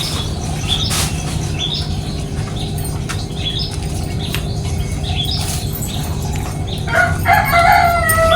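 Sparrows chirping in short repeated notes about twice a second, with two sharp clicks near the start and a steady low hum underneath. About seven seconds in, a louder, longer call with a clear pitch sounds over them.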